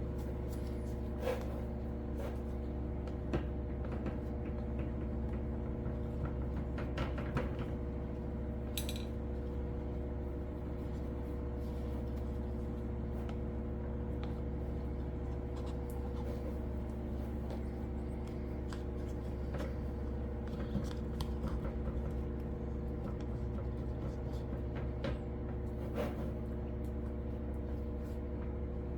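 A steady hum made of many even tones, with scattered light clicks and taps of cups and tools being handled while resin is poured.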